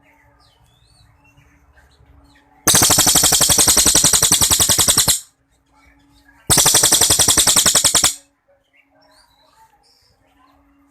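Cililin songbird singing two long, loud rapid-fire trills of fast repeated notes, the first about two and a half seconds long and the second about a second and a half, with soft chirps in between.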